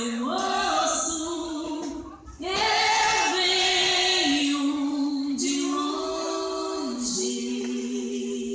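Voices singing a slow melody with long held notes and little or no accompaniment, with a short break about two seconds in.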